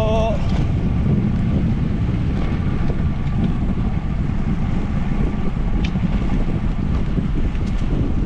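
Wind buffeting the microphone of a moving bicycle rider, a steady low rumble.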